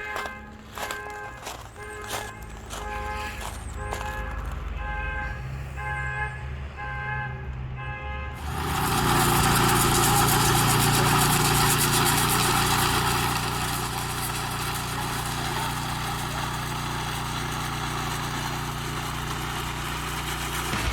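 Heavy vehicle engine running with a repeated pitched beeping, then running up much louder and steadily about eight seconds in.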